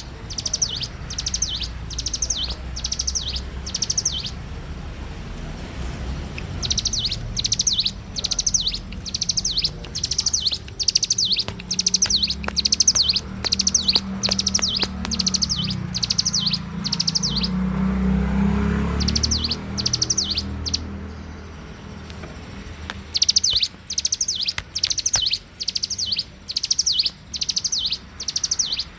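A ciblek gunung (prinia) singing: long runs of sharp, high, repeated chirps, about three notes a second, with short pauses between runs. A low rumble sounds under the song in the middle.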